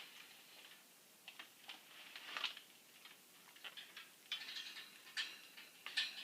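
Faint scattered clicks, taps and scratchy little bursts from pet parrots moving about at their bathwater, with a few louder clusters about halfway and near the end.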